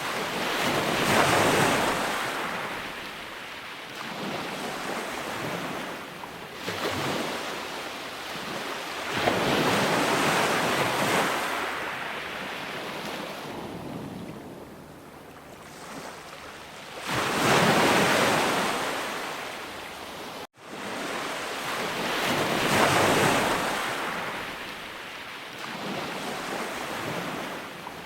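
Sea waves breaking and washing up on the shore, each wave swelling and fading over several seconds, about four in all. Near two-thirds of the way through, the sound cuts out for an instant.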